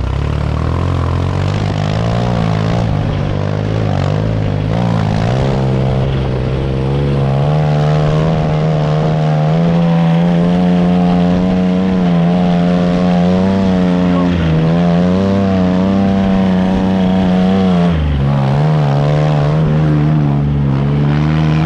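Motorcycle engine running under way, its note shifting with the throttle: it climbs and holds higher through the middle, drops sharply about eighteen seconds in, then runs steady again.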